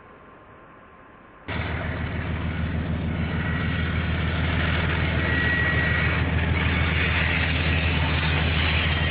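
Diesel locomotive running close by: a loud, steady low engine rumble with a rushing noise over it, cutting in abruptly about a second and a half in.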